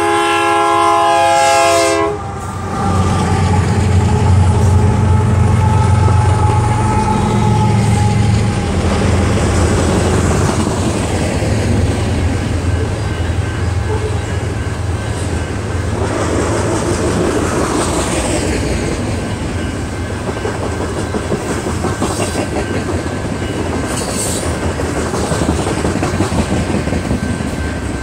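Freight train's diesel locomotive air horn sounding a chord that cuts off about two seconds in. Then the lead diesel locomotives pass with a low engine drone, and a long string of loaded coal hopper cars follows, rolling by with a steady rumble and clickety-clack of wheels on the rails.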